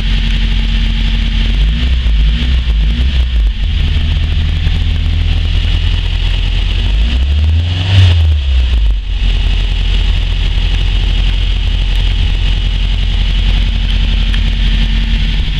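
Chevrolet Chevette's four-cylinder engine idling cold, with a few small throttle blips about two to three seconds in. About eight seconds in it revs up to around 2,600 rpm and drops back to a steady idle.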